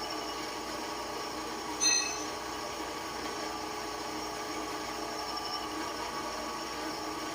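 Steady hum of a running shop machine, with one sharp ringing metal clink about two seconds in.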